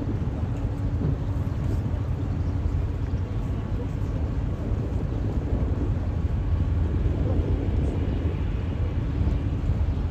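Tour boat's engine running steadily underway, a constant low rumble.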